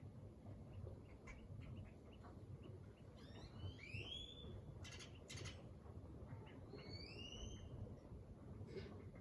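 Faint outdoor ambience with a bird giving two short curving whistled calls, about three seconds apart. A couple of sharp clicks come between them, over a steady low background rumble.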